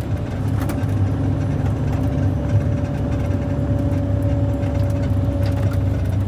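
Steady low rumble of a running motor vehicle, with a faint steady whine held above it.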